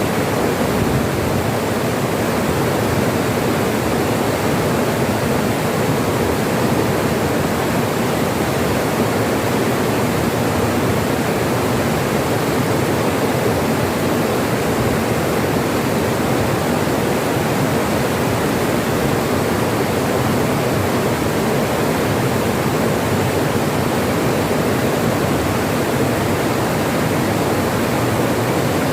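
Steady rushing of a stream flowing over river stones, an even noise that holds the same level throughout.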